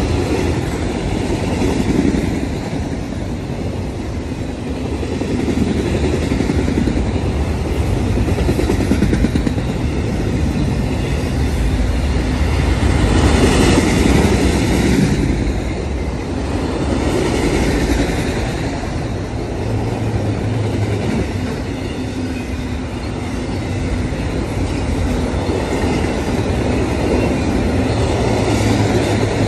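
Freight train of autorack cars rolling past: a continuous rumble of steel wheels on rail, swelling and easing every few seconds as the cars' wheelsets go by.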